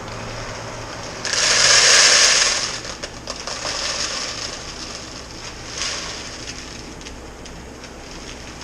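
A loud dry rustling hiss lasting just over a second, then lighter crackling rustles: black roasted barley being poured and handled in a bag to be weighed.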